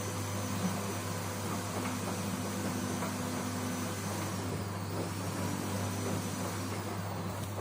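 LG direct-drive front-load washing machine running with a steady low hum and a faint motor whine; the whine and some of the hum's upper tones drop away about four seconds in.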